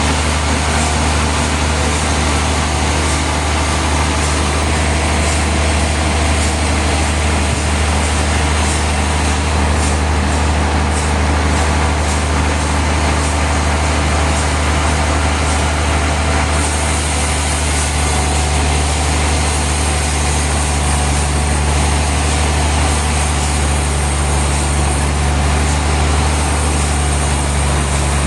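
Heavy sawmill machinery running steadily: a deep engine drone with a constant noisy wash over it. A high hiss grows brighter about two-thirds of the way through.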